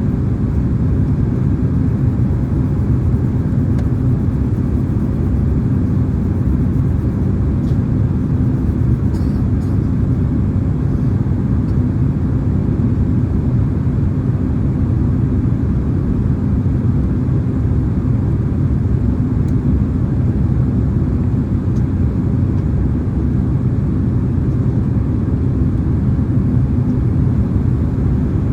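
Steady cabin noise of a Boeing 767-300ER in flight: an even rush of engines and airflow, heaviest in the low end, holding constant throughout.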